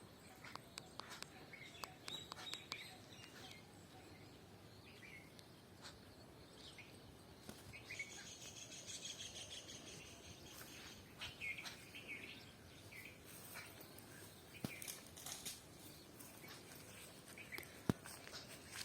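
Birds chirping in scattered short calls, busiest about halfway through, with occasional soft footsteps.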